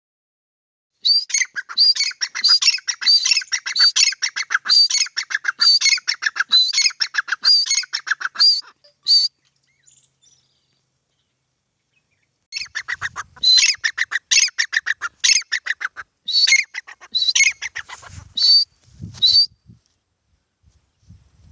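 Grey francolin calling: two bouts of loud, rapidly repeated shrill notes, with a few seconds' pause between them.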